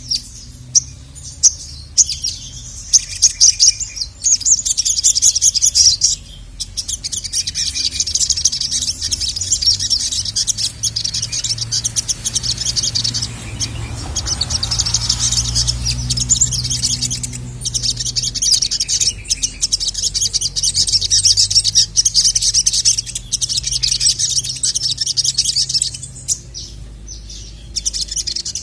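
Sogon (sogok ontong) sunbird singing a fast, high-pitched chattering song in long unbroken runs with a few short pauses, the agitated full song used as a call to draw in males. A steady low hum sits underneath.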